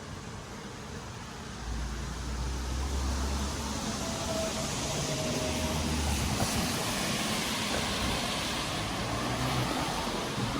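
A car passing on a wet street in steady rain: a low engine hum comes in about two seconds in, with tyre hiss on the wet road, over the constant sound of falling rain.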